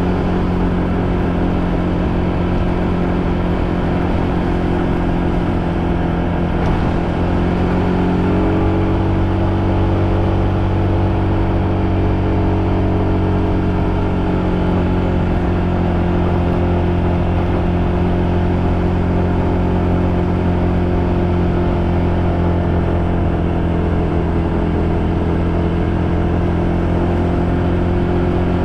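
Motorbike engine running steadily under way, its note holding fairly even with slight rises and falls in pitch.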